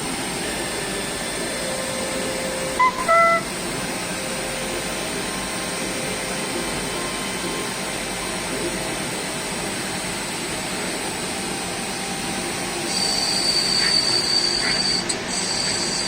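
DMG Sprint 20 Linear CNC lathe running during long turning: steady machine noise with a constant high tone. About three seconds in comes a brief run of short beeps at different pitches. About thirteen seconds in a louder, higher whine starts and holds, with a few clicks.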